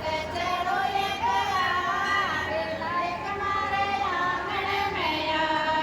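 High voices singing a Rajasthani Marwari devotional folk song (bhajan), the melody sliding and wavering between held notes.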